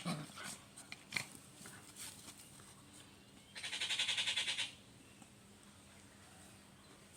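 Dog and puppies moving about: light scuffs and clicks, then a fast rattling burst lasting about a second near the middle.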